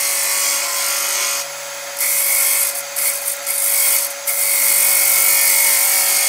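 Wood turning on a lathe: a cutting tool shaving the spinning wood with a loud hiss, in passes of one to two seconds with short breaks between them, over a steady motor hum.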